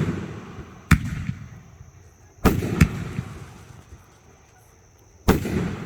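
Fireworks going off: a sharp bang about a second in, two close together about two and a half seconds in, and another near the end, each trailing off in a rumble that fades over a second or so.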